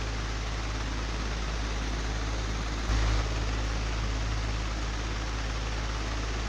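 Old, broken electric fan running: a steady rush of air over a low motor hum, with one brief louder bump about three seconds in.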